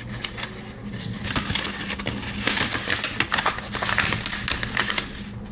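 Rustling and a quick run of small clicks and taps from hands handling a Swiss Army knife's box and packaging. The handling is busiest from about a second in until near the end.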